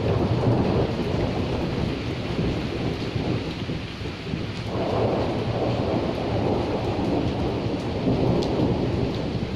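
Steady heavy rain with a low, rolling thunder rumble, which swells about halfway through.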